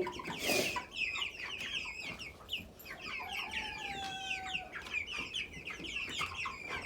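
A pen of chickens calling, many short high peeping and clucking calls overlapping, with one longer held call about three seconds in.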